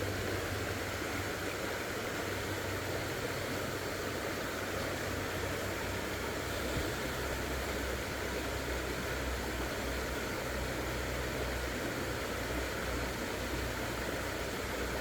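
Steady rushing of flowing creek water: an even hiss with a low rumble beneath it.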